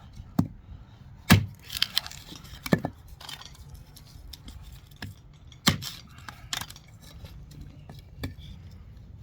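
Irregular sharp knocks and clicks, about seven over nine seconds, each short and sudden.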